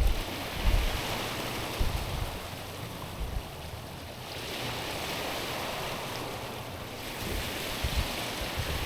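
Small waves washing over a stony, pebbly shore: a steady hiss that swells about four seconds in and again near the end as each wash comes in. A few short low rumbles of wind on the microphone break in now and then.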